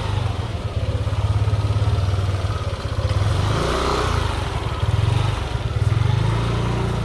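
A motorcycle engine running close by, with a fast low flutter that swells around the middle and again near the end.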